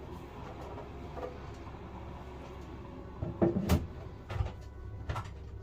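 Clunks and knocks of a boiler cover or cupboard being handled and closed during reassembly: a cluster of knocks about three and a half seconds in, then two lighter knocks, over a steady low hum.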